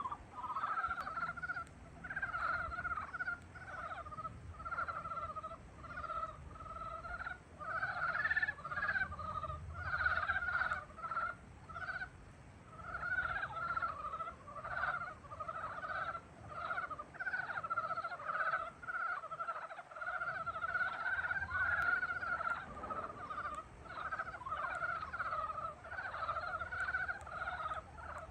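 A chorus of frogs calling in spring: many rapid, pulsed croaking calls overlap without a break, swelling and dipping in loudness.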